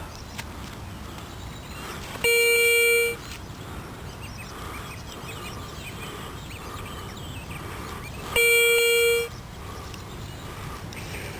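Metal detector giving two identical steady beeps, each a little under a second long and about six seconds apart, as it is passed over a buried coin target.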